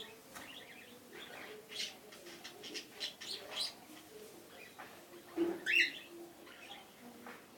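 Cockatiels chirping in short repeated calls, with one louder, longer call a little over five seconds in.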